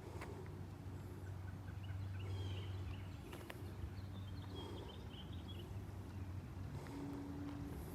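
A bird giving short, chattering calls, once about two seconds in and again in a longer run near the middle, over a steady low hum.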